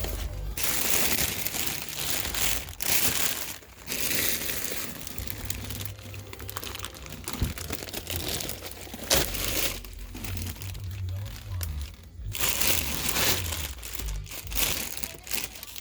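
Plastic packaging crinkling and rustling as it is handled, in repeated bursts with short pauses.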